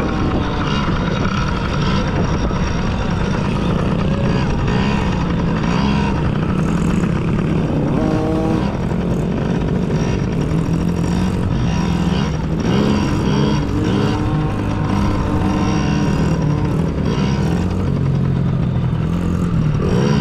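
Small dirt bike engine revving up and down repeatedly as the bike is ridden around a motocross track, its pitch rising and falling with the throttle.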